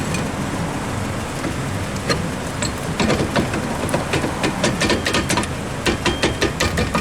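Rear brake drum being worked back onto the hub over freshly adjusted brake shoes: metal clicks and knocks come several a second from about three seconds in, as the drum fits tight against the shoes. A steady low rumble runs underneath.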